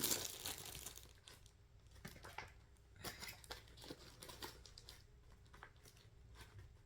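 Plastic packaging crinkling as kit items are handled, loudest at the start and fading within about a second, followed by fainter scattered rustles and small clicks.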